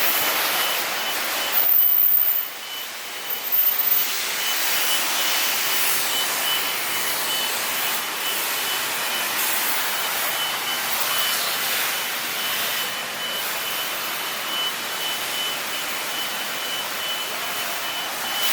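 Steady hiss of water spraying from a pressure-wash wand onto a car, with a quick run of short, high beeps repeating throughout.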